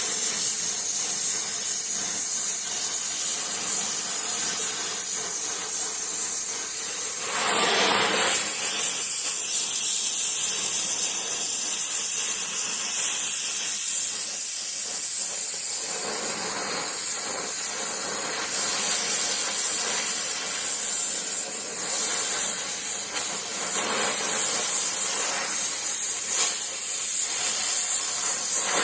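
Gas welding torch flame hissing steadily while puddle-welding a cast iron exhaust manifold, with a brief louder rush about a quarter of the way in.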